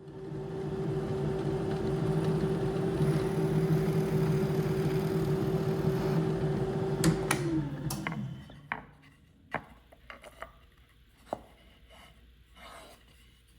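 An electric power tool's motor running steadily at a constant pitch, then switched off about seven seconds in and winding down with a falling pitch. A few sharp knocks and clicks follow.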